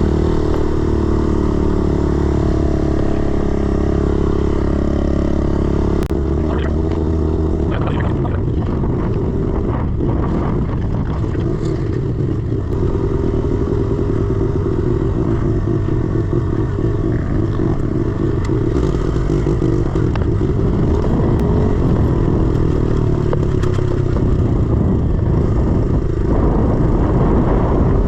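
A 110cc four-stroke single-cylinder pit bike engine running as the bike is ridden over a dirt track. The engine is steady for the first six seconds or so, then rises and falls with the throttle, with scattered knocks and rattles from the bike over the bumps.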